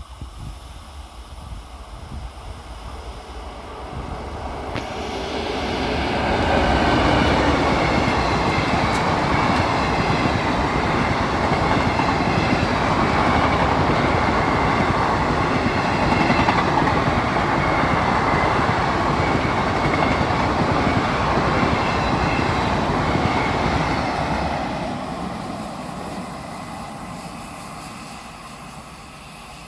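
Express passenger train hauled by an electric locomotive passing at high speed. It swells over the first few seconds, then holds a loud steady rush and clatter of coach wheels over the rails for about eighteen seconds, and fades away near the end.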